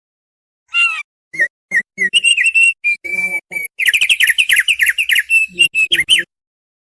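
Thick-billed heleia (opior paruh tebal) singing: a few separate short whistled notes, then a quickening run of rapid whistled and chattering notes that stops abruptly.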